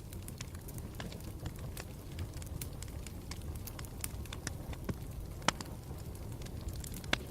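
Campfire burning: a low steady rumble with frequent irregular crackles and pops, two louder pops near the end.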